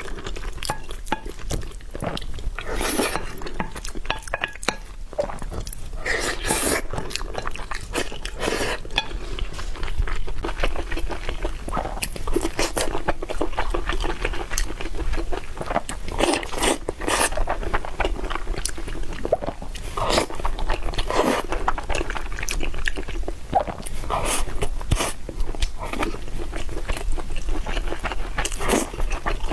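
Close-miked eating of spicy noodles and fried tendon: crunchy bites and chewing, with many sharp crackles throughout.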